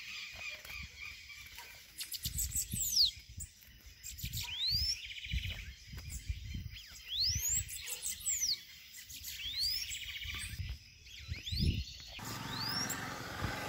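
Bananaquits (sibite) calling with thin, high swept whistles repeated every second or two. Soft knocks and rustling from handling run underneath, and the rustling grows near the end.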